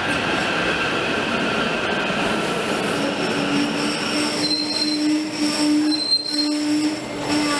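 SEPTA Silverliner V electric multiple-unit train rolling past close by along a platform. The rushing of the cars is joined about three seconds in by a steady whine, and a high-pitched squeal comes and goes over the last few seconds.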